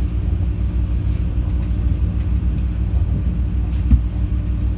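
Steady low rumble of a diesel passenger train running along the track, heard from inside the carriage, with a single louder thump a little before the end.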